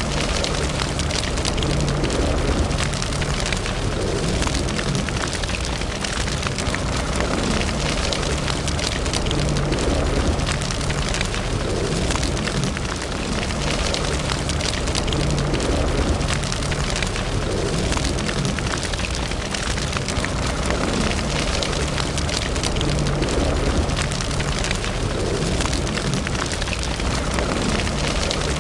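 Wood fire burning in a fireplace: a steady, dense crackling of many small pops over a low rumble.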